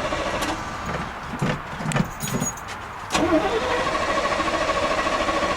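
Starter motor cranking the 1982 Chevy C30's 5.7-litre small-block V8. It cranks once, stops about a second in, then engages again with a click a little after three seconds, spins up and cranks steadily, and the engine does not catch. The owner puts the failure down to fuel having drained away, so the carburettor has lost its prime.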